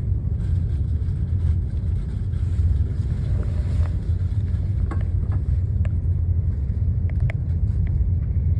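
Deutsche Bahn train running steadily, a continuous low rumble with a few faint clicks partway through.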